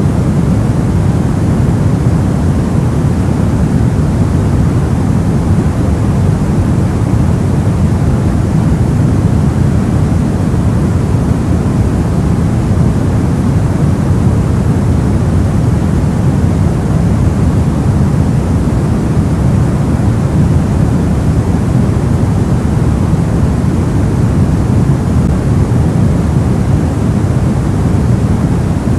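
Soft white noise for sleep: a steady, even hiss weighted toward the low end, so it sounds like a deep rumble, with no change throughout.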